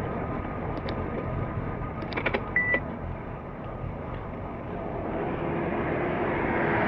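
Steady rushing road and wind noise from a moving vehicle, with a few sharp clicks and a brief beep about two and a half seconds in. The noise grows louder near the end.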